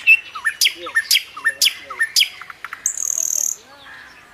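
Birds chirping: a sharp high call repeated about twice a second, with lower swooping notes under it. A brief hiss comes a little after three seconds in, then softer calls.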